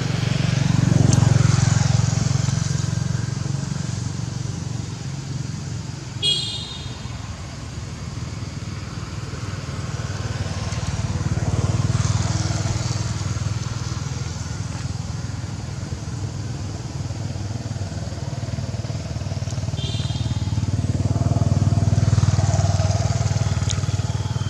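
Motor vehicles, mostly motorbikes, passing on a road: a low engine rumble swells and fades three times. Two brief high-pitched squeaks cut through, once about a quarter of the way in and again near the end.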